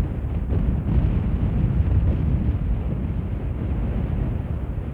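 Wind buffeting the camera's microphone: a rough, gusting low rumble.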